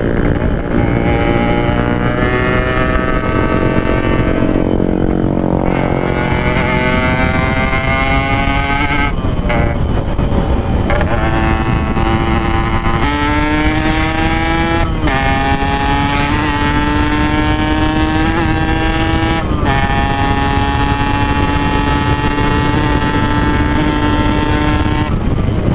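Yamaha RX-King 135 two-stroke single-cylinder motorcycle engine ridden at full throttle. Its pitch climbs and drops back at each of several gear changes, then holds at steady high revs through the second half.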